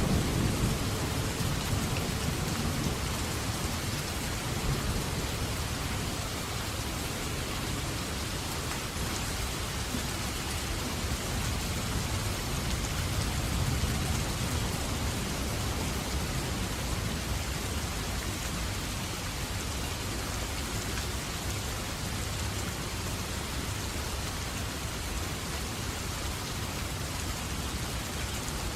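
Steady rain falling, with the tail of a thunder rumble dying away in the first second or so.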